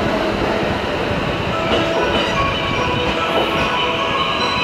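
JR West electric commuter train rolling slowly along the platform, its wheels rumbling over the rails while thin, steady whining tones sound over the rumble as it comes in.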